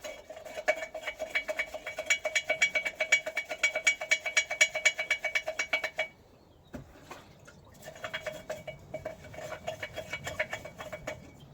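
Fast, rhythmic metal-on-metal scraping, about seven strokes a second, with a ringing tone from the struck metal. It comes in two runs: one of about five seconds, then after a short pause one of about three seconds.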